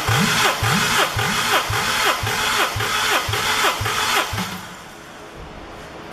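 Honda B20B 2.0-litre four-cylinder engine making a rhythmic series of short rising pulses, about two a second, which stop about four and a half seconds in.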